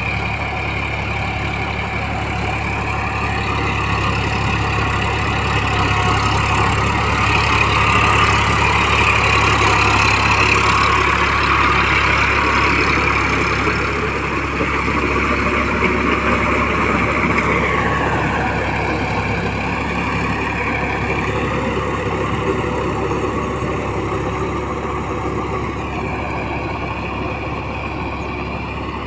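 Massey Ferguson 9000 tractor's diesel engine running steadily under load while puddling wet mud. It grows louder toward a third of the way in, and its pitch sags a little past the middle and picks up again near the end.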